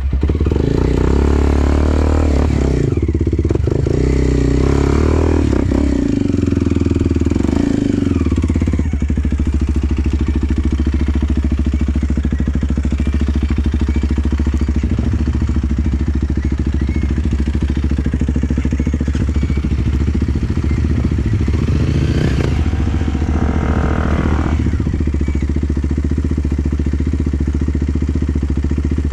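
Enduro dirt-bike engine revving unevenly for the first several seconds, then running at a steady idle, with a short blip of revs a little after the middle.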